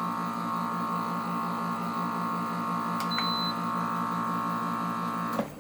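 Air conditioner running with a steady electrical hum and a pulsing drone while its fan does not turn, which the owner blames on a failed capacitor. A short high beep sounds about three seconds in, and the hum cuts off just before the end.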